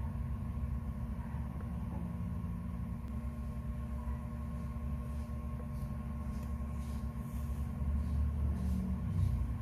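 Steady low rumble with a faint hum running through it.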